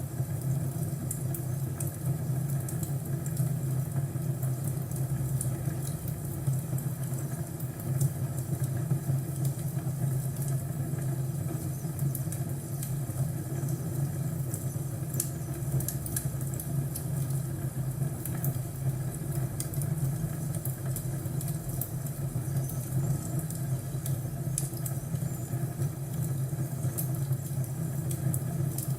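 Fireplace crackling: many small, scattered pops over a steady low rumble.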